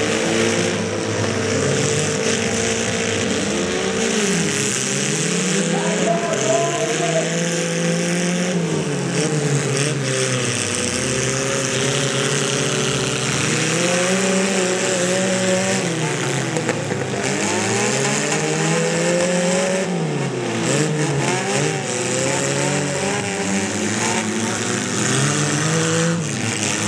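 Several small-car engines in a demolition derby revving up and down over and over, their pitch rising and falling as the cars reverse and charge, with a few crunching hits as cars collide.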